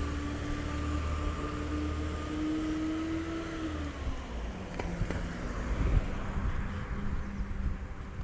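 Diesel Peterbilt 320 side-loader garbage truck running at raised engine speed with a steady whine. About four seconds in the whine winds down to a lower idle, and a couple of sharp knocks follow.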